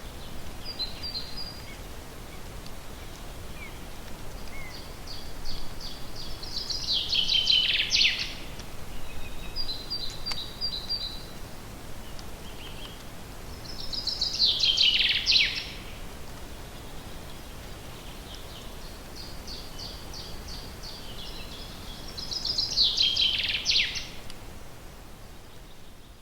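Forest songbird singing the same song over and over, roughly every seven or eight seconds: a quickening run of repeated high notes that ends in a quick falling flourish, with a few shorter chirps from other birds in between. The sound fades out near the end.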